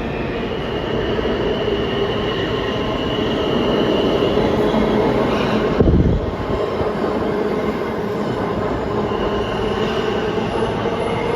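New York City subway train running on the rails, its wheels squealing in a high, wavering tone that fades in and out, with one heavy thud about six seconds in.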